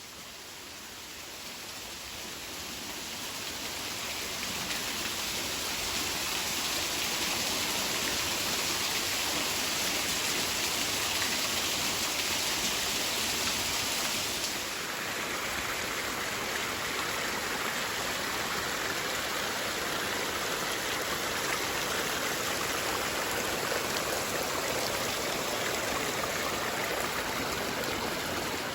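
Steady rushing and splashing of water falling over a small waterfall. It grows louder over the first few seconds, then changes character about halfway through.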